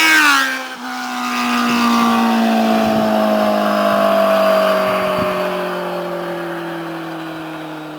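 Kawasaki Z750's inline-four engine through a LeoVince SBK EVO II exhaust, running at high revs. Its note drops sharply about half a second in, then falls slowly and fades as the bike slows or moves away.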